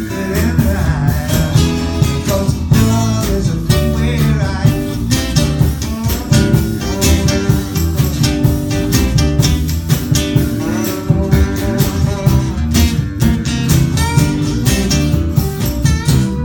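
Live band playing a blues-style number: guitar over bass and drums, with steady drum hits throughout.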